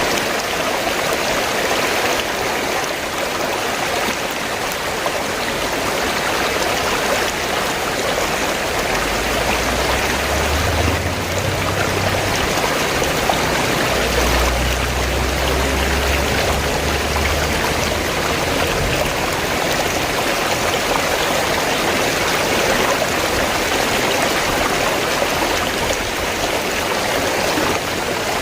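River water flowing steadily, a dense, even water noise. A low rumble sits underneath for several seconds in the middle.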